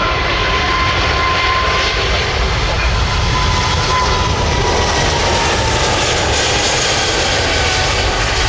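Jet airliner's engines passing close: loud, steady jet noise with a thin whine that slowly falls in pitch.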